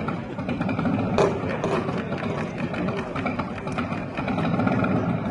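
Motorcycle engine running steadily, with a few sharp clicks about a second in.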